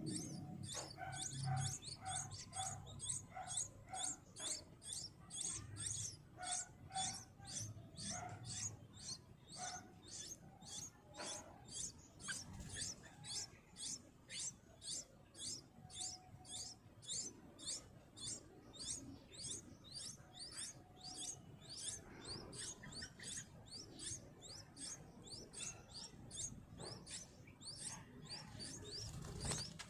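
A bird giving high, thin chirps over and over, about two to three a second, each sliding downward in pitch. For roughly the first third a second, lower-pitched bird call repeats faintly underneath.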